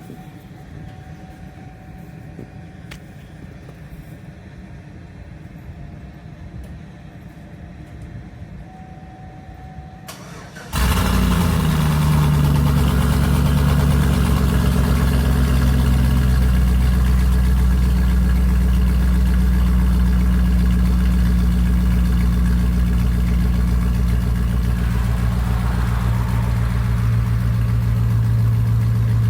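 A 2003 Chevy Tahoe's V8 fires up with a straight-piped exhaust and no catalytic converters. About ten seconds in it catches suddenly and loudly, the revs flare and drop, and it settles into a steady, deep idle.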